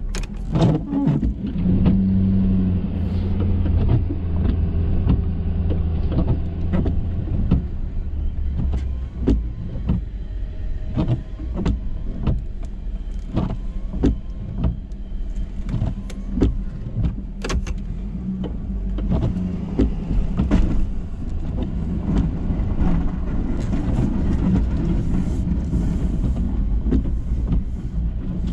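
Ford F-350 plow truck's engine running steadily, with frequent short knocks and clunks throughout.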